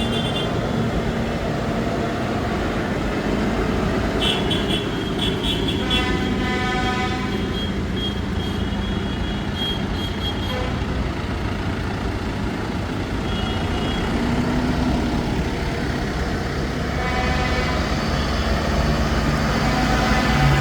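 Diesel tractor engines running steadily as a procession of tractors passes, with a horn tooting a few seconds in. The engine sound grows louder near the end as another tractor comes close.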